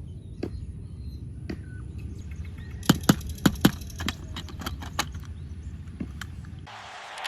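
Toy vehicles being handled: scattered sharp clicks and light knocks, with a quick run of four loud clicks about three seconds in, over a steady low hum.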